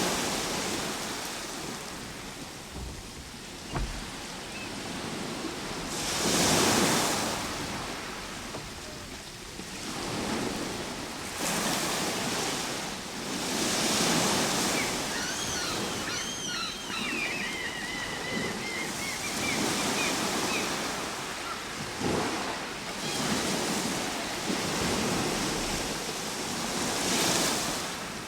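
Ocean waves breaking and washing on a shore, each surge building and fading every few seconds. About halfway through comes a run of short, high chirping calls.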